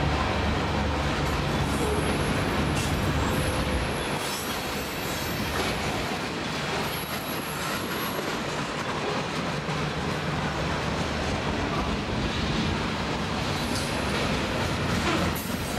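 Refrigerated boxcars of a freight train rolling past: a steady rumble of steel wheels on rail, with short high-pitched wheel squeals several times.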